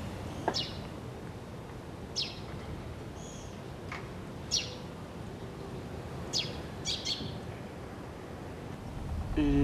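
Small birds chirping outdoors: about six short, high calls, each a quick downward sweep, at irregular gaps over a steady background hiss.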